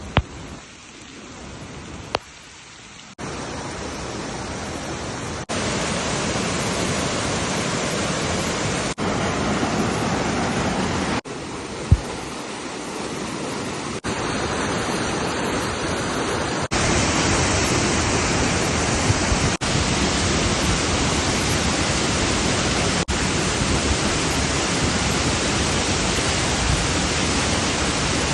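Steady hiss of heavy rain and running water, jumping abruptly in level at several cuts between clips, with a few brief clicks.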